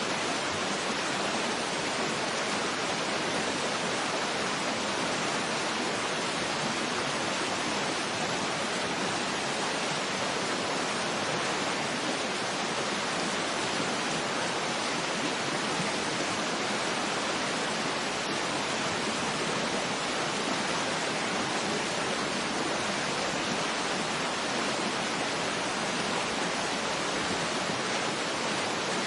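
Waterfall rushing, a steady even hiss of falling water with little bass.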